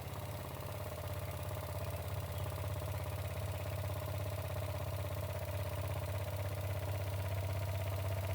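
Jensen #35 live steam engine running steadily at speed, a fast, even beat over a constant hum with a steady higher tone.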